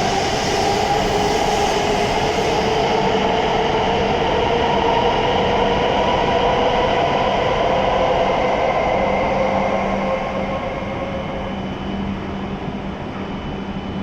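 E7-series Shinkansen train pulling out of the station, its traction motors giving a whine of several tones that rise slowly as it gathers speed. The sound fades about ten seconds in as the train draws away.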